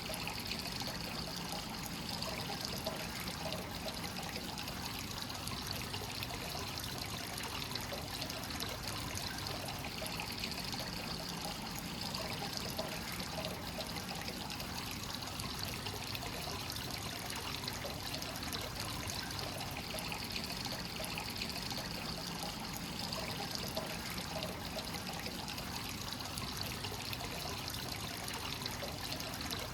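Hot spring water from a free-flowing source pouring steadily into a bath, a continuous trickling splash.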